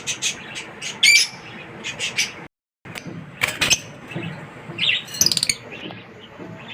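Small pet parrots chirping and squawking in short, sharp high calls that come thick and fast. The sound drops out completely for a moment about two and a half seconds in.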